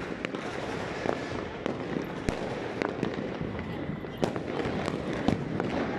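Fireworks going off all over a city: a constant wash of many distant bangs and pops, with sharper single bangs at irregular moments, the loudest about two, four and five seconds in.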